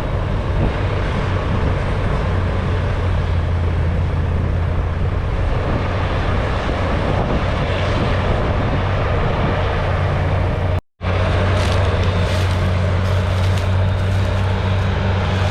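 Heavy diesel farm machinery running steadily at silage harvest, with a constant deep engine drone. The sound cuts out for an instant about eleven seconds in, then carries on the same.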